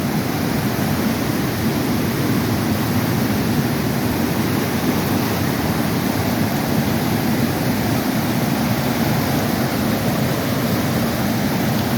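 Flooded creek pouring through its bed after heavy rain: a steady, unbroken rush of fast-moving water.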